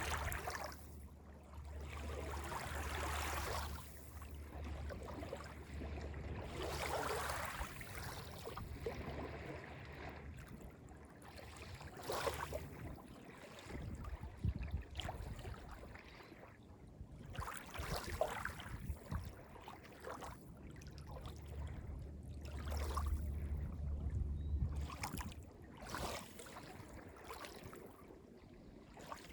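Small waves on Lake Ontario lapping and washing onto the beach in irregular swells every one to three seconds, some longer and softer, some short and splashy. A deep steady rumble sits underneath at the start and again about three quarters of the way through.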